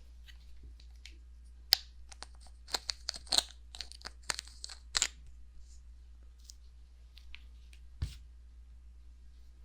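Fingertips tapping and scratching on the silicone ears of a 3Dio binaural microphone: a quick run of sharp, crackly taps from about two to five seconds in, then a single tap near the end.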